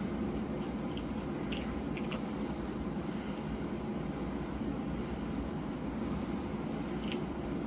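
A steady low hum with a few faint short clicks over it.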